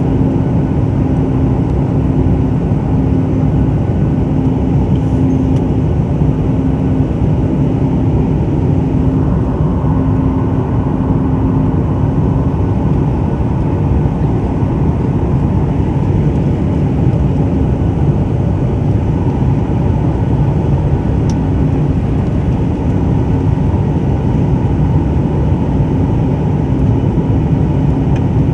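Steady cabin noise inside a Boeing 737 MAX 9 airliner in flight: a continuous low rumble of its CFM LEAP-1B engines and rushing air, with a constant hum running through it.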